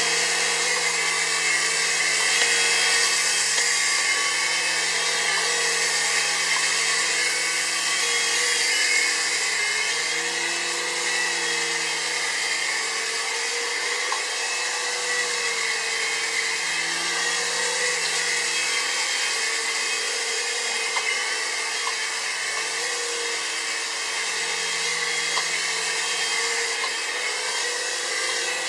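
QS9005 3-channel RC toy helicopter's small electric motors and rotors whirring steadily. Its low hum drops and comes back every few seconds as the rotor speed changes.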